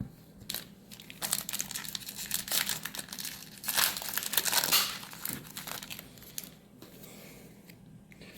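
Foil wrapper of a Magic: The Gathering Wilds of Eldraine booster pack crinkling as it is handled and torn. The crinkling starts about a second in, is loudest around four seconds, and dies down to light handling noise after about five seconds.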